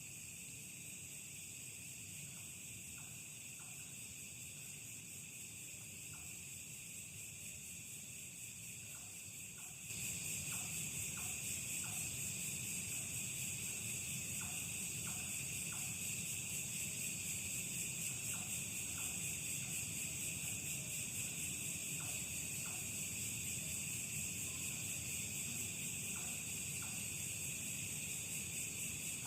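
Steady, continuous high-pitched chorus of night insects such as crickets, with faint short calls repeating in small clusters; the whole sound becomes louder about ten seconds in.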